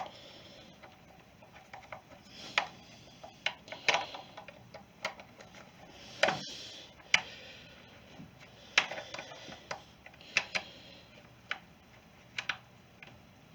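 Irregular sharp clicks and taps of small hand tools and screws on the trimmer's metal and plastic parts as it is worked on, about one or two a second.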